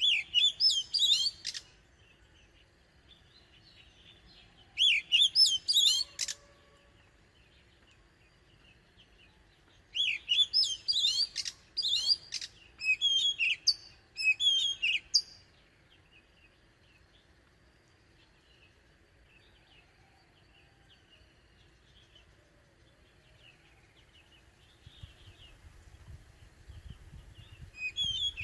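Oriental magpie-robin singing in three bouts of loud, rapid, varied whistled phrases, the last one several seconds long. A faint low rustling comes up near the end.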